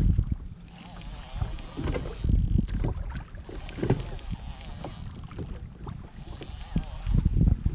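Wind buffeting the microphone in uneven gusts, with water slapping and splashing against a kayak's hull.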